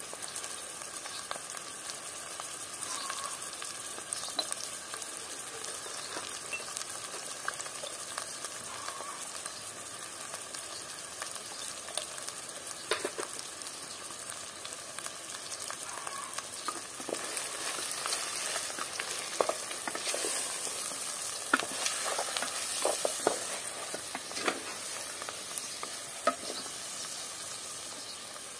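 Lamb, red beans and fried herbs sizzling in hot oil in an aluminium pot. In the last third the sizzle grows louder and a wooden spatula knocks and scrapes against the pot as the mix is stirred.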